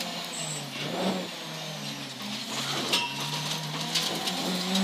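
Honda Civic EP3 rally car's engine heard from inside the cabin on a stage, over road and tyre noise. The engine note drops about half a second in, stays lower through the middle and climbs again near the end as the throttle is lifted and reapplied.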